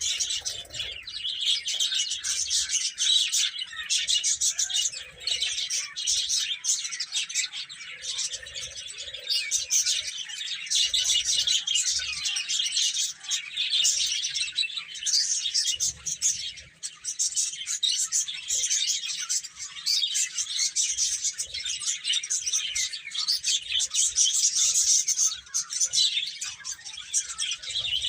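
A group of baby chicks cheeping without pause, many high-pitched peeps overlapping one another.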